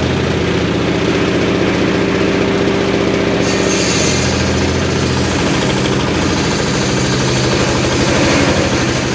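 Engine of a homemade circular sawmill running steadily with an even, rapid beat; a brighter hiss joins about three and a half seconds in.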